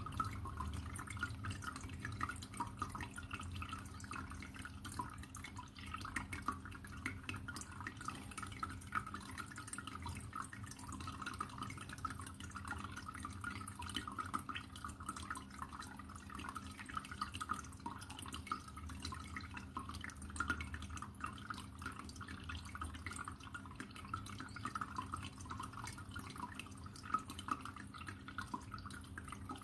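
Water trickling and splashing steadily in a dense patter of small drops, with a low steady hum underneath.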